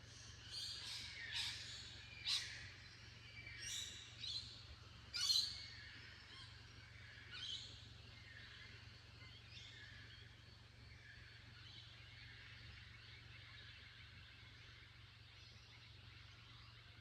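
Birds calling: a run of short, high calls over the first half, the loudest about five seconds in, then only a faint steady hiss.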